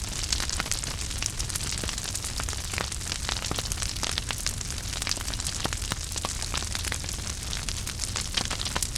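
Wood fire burning in a fireplace: a steady low rush of flame under continual irregular crackles and small sharp pops.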